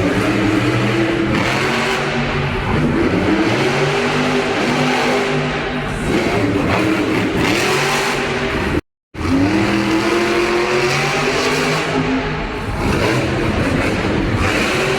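A monster truck's supercharged V8 engine revving hard, its pitch climbing and dropping again and again, with a brief cut in the sound about nine seconds in.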